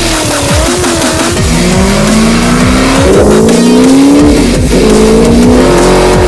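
A high-performance V8 car accelerating hard, its engine note climbing steadily in pitch through a gear, dropping at a shift a little after four seconds in, then climbing again. Backing music plays underneath.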